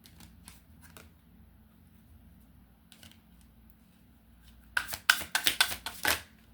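Tarot cards being handled and shuffled: a few soft flicks, then a quick run of sharp card snaps lasting about a second and a half near the end.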